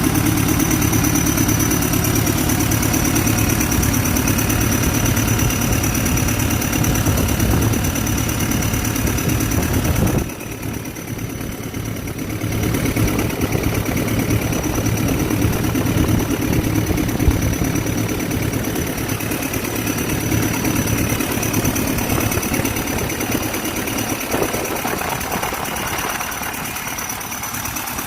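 Hino J05E four-cylinder diesel engine of a Kobelco SK200-8 excavator idling steadily, run after a top overhaul (cylinder head and head gasket) to check coolant circulation and leaks. Its sound drops sharply about ten seconds in and comes back up over the next few seconds.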